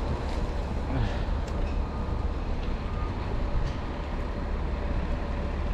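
Steady low rumble of wind on the microphone mixed with city traffic, with faint footsteps in deep snow.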